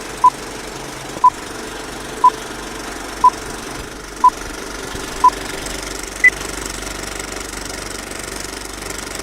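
Electronic beeps: six short beeps at one pitch a second apart, then a single higher beep, like a countdown timer, over a steady low rumble.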